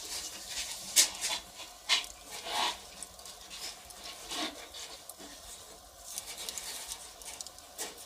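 Firewood fire crackling, with irregular sharp pops and snaps, the loudest about a second in and again about two seconds in.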